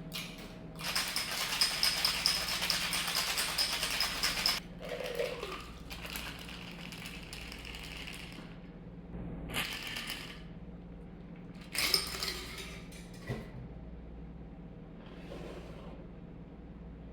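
Ice rattling in a cocktail shaker shaken hard for about four seconds, followed by softer noise and a few short clinks and knocks of bar tools and glass.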